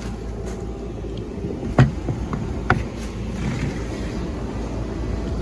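Steady low hum of the running tractor and planter, with two sharp clicks about a second apart near the middle as the planter row unit is handled.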